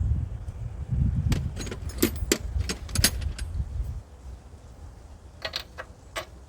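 Metal hand tools clinking and clicking, a 13/16 spark plug socket and wrench being handled to pull the spark plug from a small engine. A low rumble underlies the first four seconds.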